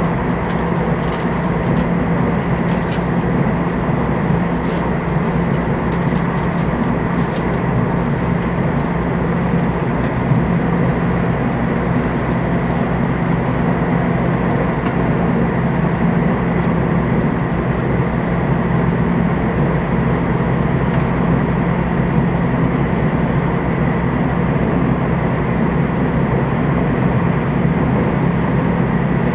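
Inside the passenger cabin of a Taiwan Railways TEMU2000 Puyuma Express electric train in motion: a steady rumble of wheels on rail with a constant low hum.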